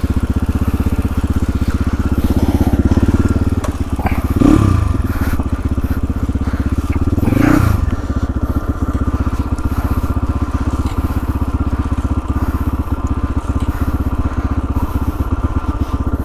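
Motorcycle engine running steadily, with two brief louder swells about four and a half and seven and a half seconds in.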